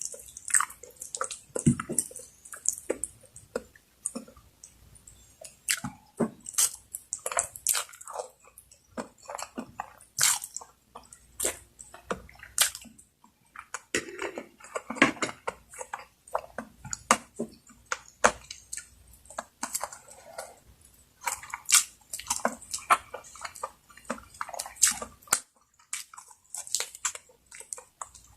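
Close-miked eating: irregular wet chewing and mouth smacks, with short gaps.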